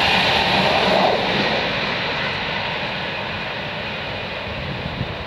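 Virgin Pendolino electric train passing at speed, a rush of wheel and air noise that fades steadily as it draws away.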